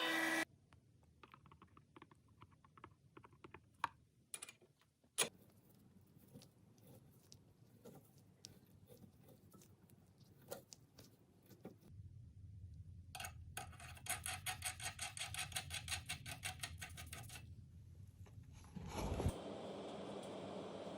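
Small metal clicks, taps and scrapes of hand work on metal parts, with a sharp knock about five seconds in and a run of rapid, even clicking in the middle. A steady hiss starts near the end.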